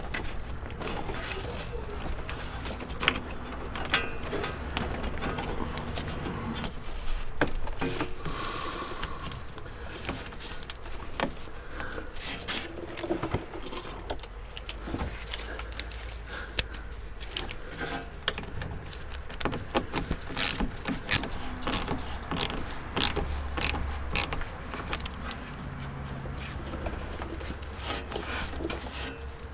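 Irregular clicks, taps and clanks of hand tools and car parts being handled during work on the intercooler plumbing, over a faint steady low hum.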